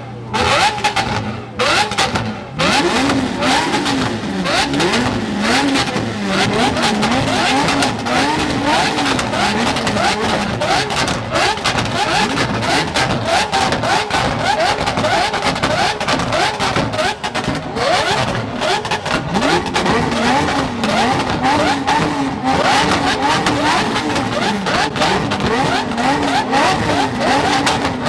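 Car engine being revved over and over, its pitch swinging up and down about once a second, with other engine noise around it.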